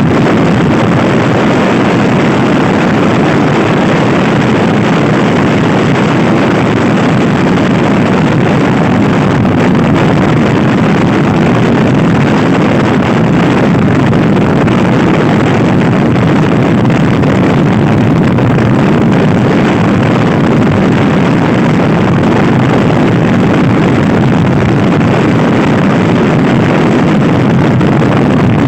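Loud, steady wind rush buffeting the microphone of a stock Honda Scoopy i scooter ridden hard at speed, with the scooter's engine running underneath.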